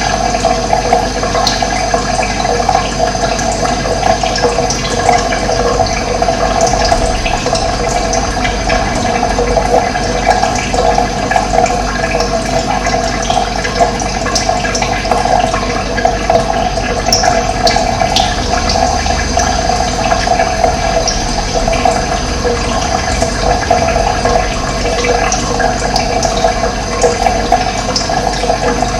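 Steady rush of running water, with a few short bird chirps.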